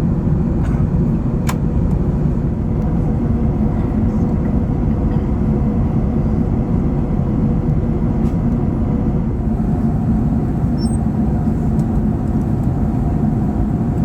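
Steady cabin drone of an Airbus A380 in cruise: a constant rush of airflow and engine noise, with a faint click about a second and a half in.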